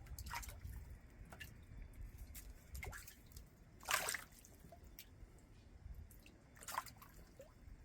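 Bluegill feeding aggressively at the surface of an aquaponics tank: irregular splashes and plops as the fish strike at the food, the loudest about four seconds in and another near seven seconds.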